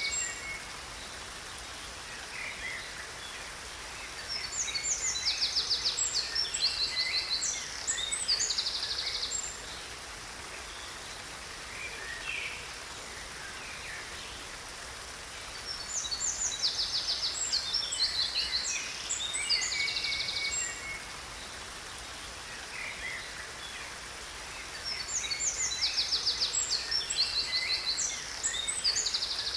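Songbirds singing in three bouts of a few seconds each, full of rapid high trills, over a steady hiss of falling water from a waterfall.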